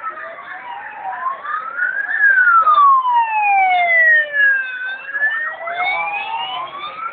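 Several emergency-vehicle sirens wailing at once and overlapping. The loudest sweeps slowly up, then down, then up again, and is at its loudest in the middle.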